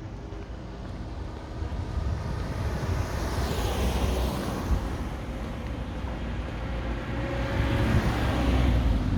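Two cars passing on the street, their tyre and engine noise swelling and fading: one about four seconds in, the second near the end.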